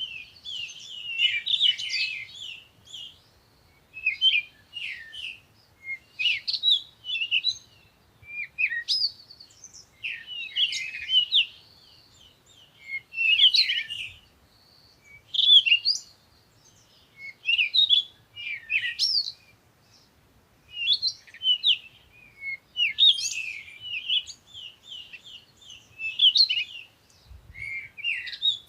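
Songbirds singing at dawn: repeated short phrases of high chirps and warbles, coming every second or two with brief pauses between.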